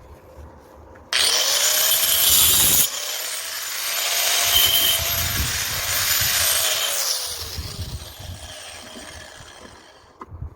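A power cutting tool running through material: a loud, even hiss that starts abruptly about a second in and fades away near the end.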